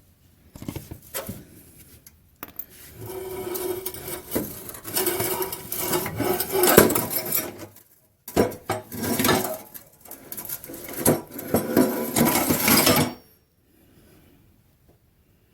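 Cordless impact wrench hammering on a rusted exhaust or bumper bolt in long rattling bursts, with a short pause about eight seconds in. It stops about thirteen seconds in.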